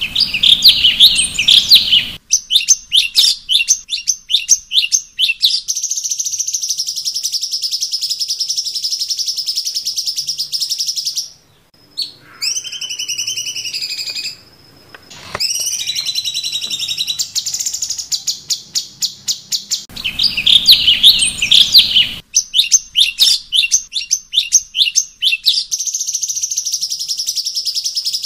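Cucak cungkok songbird singing: quick runs of sharp repeated chirps and long high trills. A brief break just before the midpoint gives way to a few sliding whistled notes, and the same sequence of phrases then repeats.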